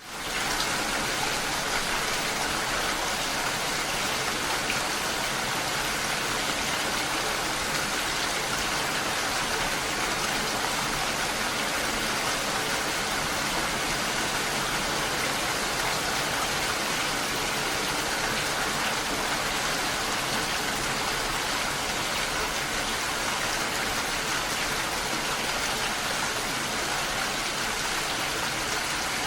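Steady rain falling, an even, unbroken hiss that cuts in abruptly at the very start.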